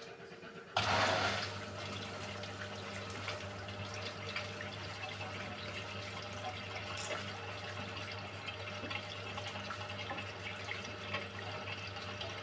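Beko WMY81283LMB2 washing machine: water suddenly starts rushing through it about a second in, then runs on steadily with a constant low hum underneath.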